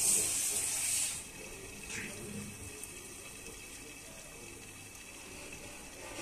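Mutton frying in oil and masala in a covered frying pan, sizzling steadily. The sizzle is louder and brighter for about the first second, then settles to an even, quieter hiss.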